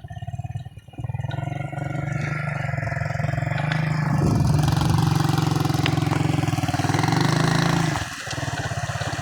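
A vehicle engine runs close by, picking up about a second in and working harder from about four seconds, then easing off shortly before the end.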